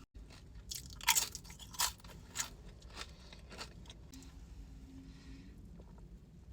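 A person biting and chewing crunchy food, with sharp crunches about every half second for the first few seconds, then softer chewing.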